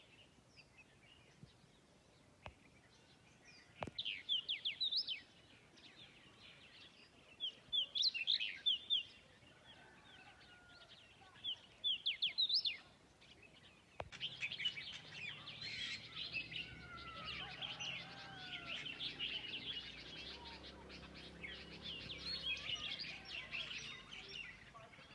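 Small birds calling in trees: three short bursts of quick, sharp chirps about four seconds apart, then from about halfway through a busy chorus of many birds chirping at once.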